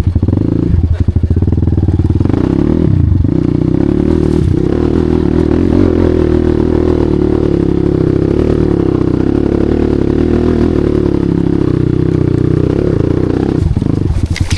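Enduro motorcycle engine under throttle on a climb: chugging at low revs with distinct firing pulses for about the first two seconds, then held at a steady, higher pitch. It stops suddenly near the end.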